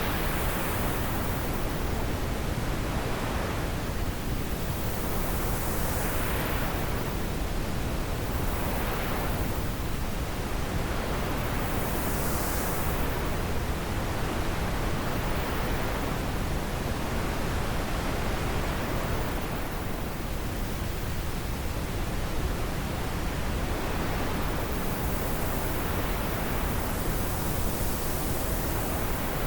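Wind blowing steadily in a continuous hiss, swelling and easing in gusts every few seconds.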